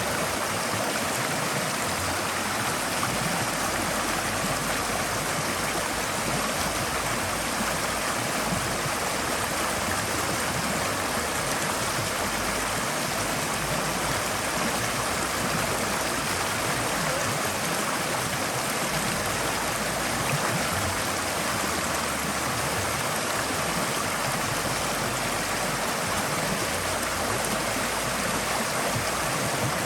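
Forest stream flowing steadily over stones, a continuous rushing and gurgling of water.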